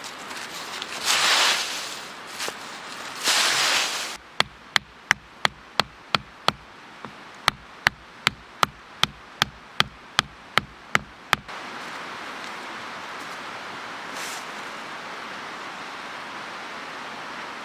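Sharp, evenly spaced knocks, about three a second in two runs with a short break, after a few rustling bursts; the knocking then gives way to a steady rushing noise.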